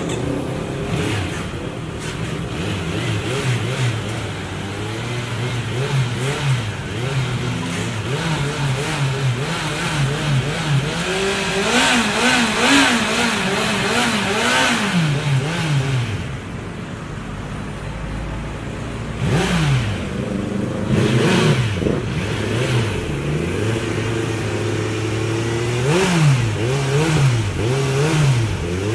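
Kawasaki Z900's inline-four engine under way, its pitch repeatedly rising under acceleration and dropping at each gear change or roll-off, with a quieter lower-revving stretch a little past halfway.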